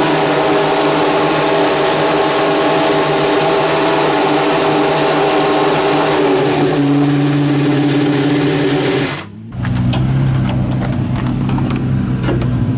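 Hillclimb race car engines at high revs: one engine holds a steady high note, then drops to a lower note about six and a half seconds in. After an abrupt break near the nine-second mark, a second engine runs at lower revs with a rapid crackle of pops.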